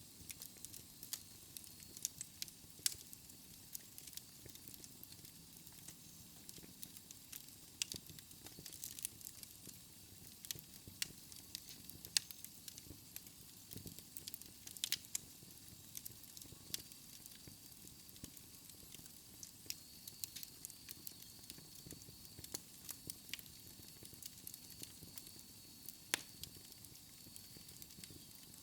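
Wood fire in a fireplace crackling, with irregular sharp pops over a soft steady hiss.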